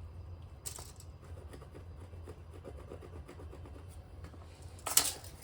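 Light rubbing and scratching from handling a sub-floor panel and measuring tools, over a steady low hum. A short brushing sound comes about a second in and a louder one near the end.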